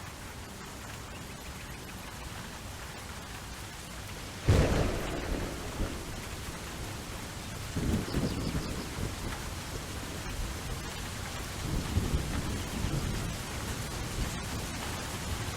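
Steady rain with a sudden thunderclap about four and a half seconds in, followed by rolling rumbles of thunder.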